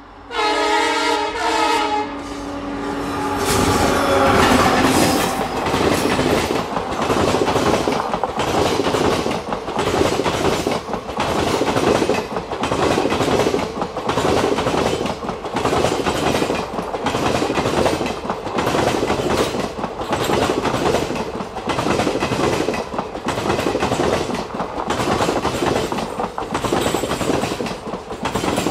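Indian Railways train passing at speed. Its horn sounds a chord for about two seconds, the pitch dropping as it goes by. Then the coaches rush past with a steady clatter of wheels over rail joints, about one beat a second.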